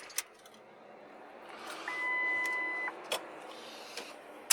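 A vehicle's electronic warning beep, one steady tone about a second long, over the vehicle's quiet running, with a few sharp clicks before and after it.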